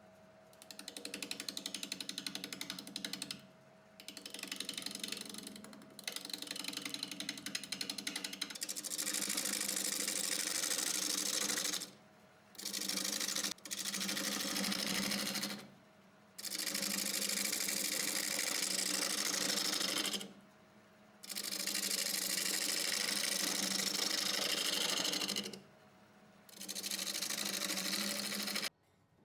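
Omega Stubby 750 wood lathe running with a tool cutting into spinning wood in repeated passes of a few seconds each, the rasping dropping away briefly between passes while the lathe keeps humming.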